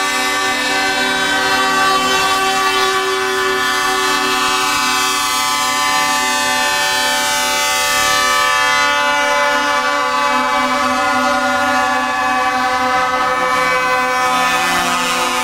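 Truck air horns sounding in one long, steady blast of several tones held together without a break.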